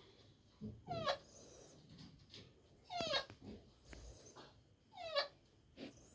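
An animal giving short whining calls, each sliding quickly down in pitch. Three of them come at about two-second intervals, with fainter low sounds in between.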